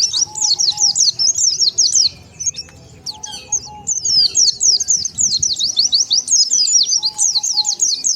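White-eye (pleci) song: a fast, high twittering of quick up-and-down notes in two long runs, broken by a pause of about a second a couple of seconds in.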